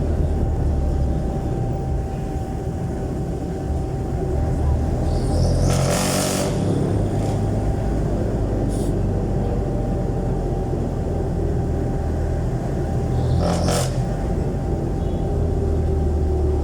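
Jeepney's Isuzu 4BC1 four-cylinder diesel running steadily through a very loud modified exhaust, heard while riding. There are two brief noisy bursts, about six seconds in and again about thirteen and a half seconds in.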